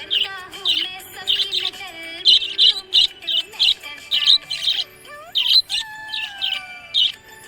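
Budgerigar chirping in short, high chirps, about two a second, over lower gliding tones.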